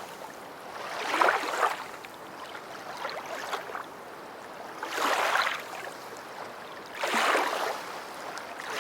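Surf washing on a sandy beach: swells of water noise that come and go about every two seconds.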